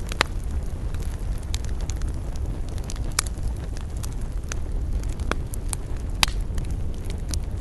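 Wood campfire crackling: irregular sharp pops and snaps, three of them louder than the rest, over a steady low rumble.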